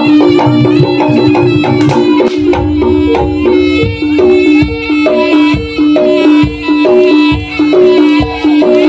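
Live jaranan music from a Javanese ensemble: drum strokes and quick runs of short struck pitched notes over one steady held tone.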